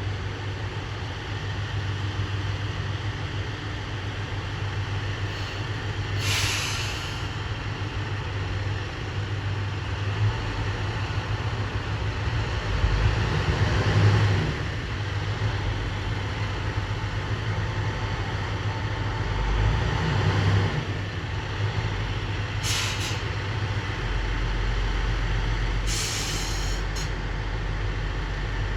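Diesel railcar engine idling with a steady low hum, and three short hisses of compressed air from the air brakes, about a quarter of the way in and twice near the end.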